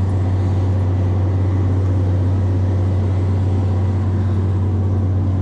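Steady, unchanging low hum with a hiss over it, like a machine running.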